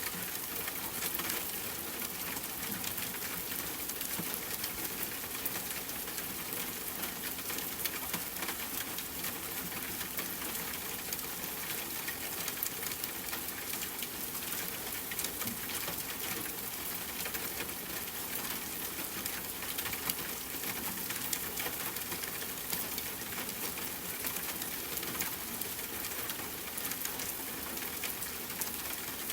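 Steady rainfall with a wood fire crackling over it: a constant hiss of rain and many small, irregular pops and snaps.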